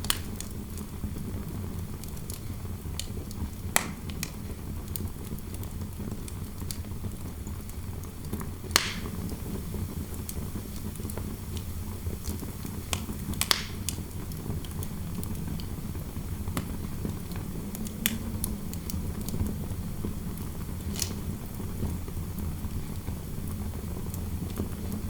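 Wood fire crackling, with scattered sharp pops standing out every few seconds, over a steady low rumble of wind noise.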